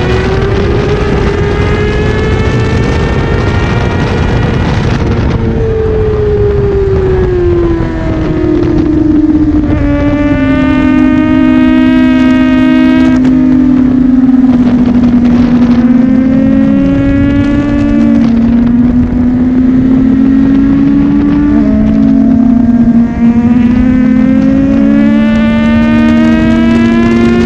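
Honda CBR600RR sports bike's inline-four engine at high revs on track, its pitch climbing and then dropping again and again as it is ridden through the gears and braked for corners, with heavy wind rush.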